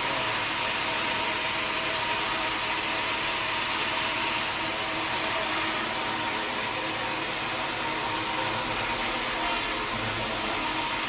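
Sawmill machinery running steadily: a constant mechanical drone with a steady whine over it.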